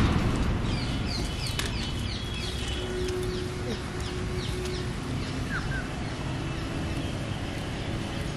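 Birds calling: a run of short, high, falling chirps repeated two or three times a second, then a single lower falling chirp, over a steady low outdoor rumble.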